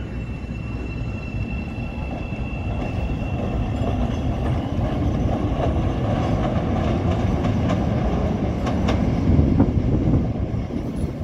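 Chicago 'L' train of CTA 5000-series cars running on elevated steel track. A high thin wheel squeal comes in the first few seconds, over a steady rumble of wheels on rail. The rumble then grows louder, with clicks of wheels over rail joints near the end.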